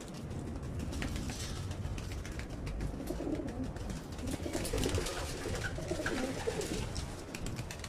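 Racing pigeons cooing low and softly, mostly from about three seconds in, with scattered light clicks.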